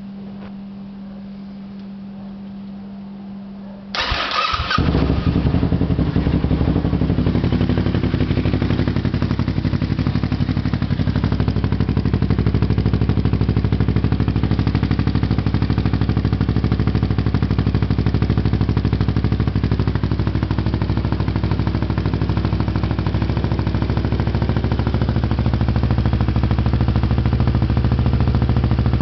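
Kawasaki Ninja 650R's parallel-twin engine with a Two Brothers aftermarket exhaust, cranked briefly on the starter and catching about four seconds in, then idling steadily.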